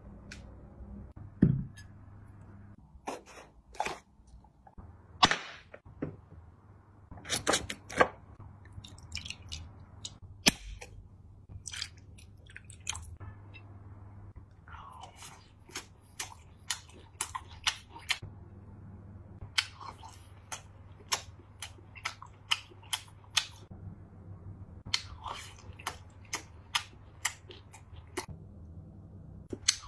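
A person chewing and smacking their lips while eating grilled meat: many short, sharp mouth smacks at irregular intervals, over a low steady hum.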